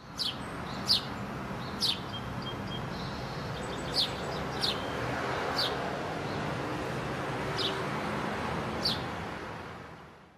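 Birds chirping, short sharp calls every second or so, over a steady hiss of outdoor ambience that fades out near the end.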